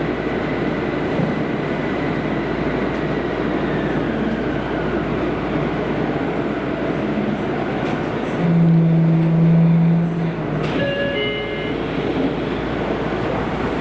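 Kobe City Subway 5000 series linear-motor car running in the tunnel, its high motor whine falling in pitch as the train slows. About eight and a half seconds in, a loud low steady hum sounds for about a second and a half, then a brief run of stepped tones, consistent with the train stopping at the station.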